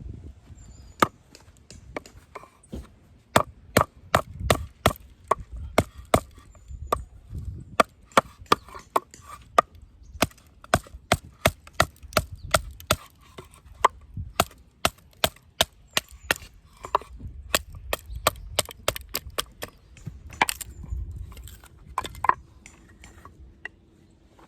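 Batoning firewood: a wooden baton striking the spine of a knife over and over to split the wood, giving sharp wooden knocks about two to three a second, with a brief pause partway through.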